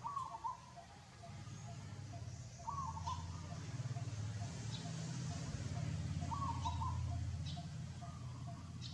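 Short, wavering animal calls repeat four times, a few seconds apart, over a low steady rumble that swells in the middle.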